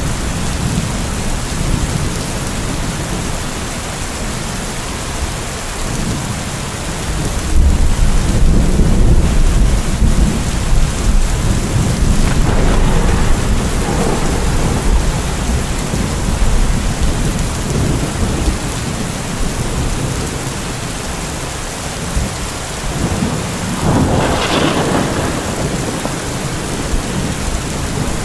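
Steady heavy rain hissing under a thunderstorm, with thunder rolling in: a loud low rumble about a quarter of the way through that lasts several seconds, and another crack of thunder near the end.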